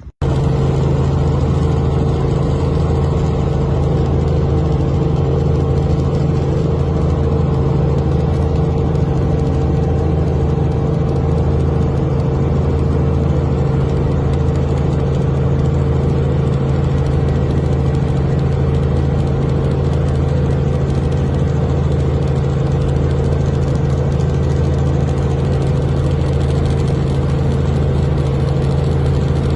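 A loud, steady low drone with a deep, unchanging tone, cutting in abruptly at the start.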